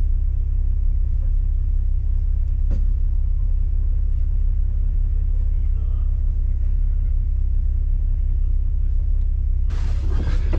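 Steady low rumble of an off-road vehicle, heard as engine and road rumble. Near the end a brighter, rougher noise joins it.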